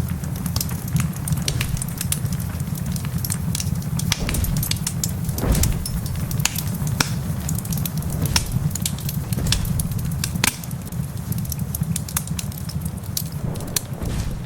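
Wood fire crackling in a fireplace, with irregular sharp snaps and pops over a steady low rumble.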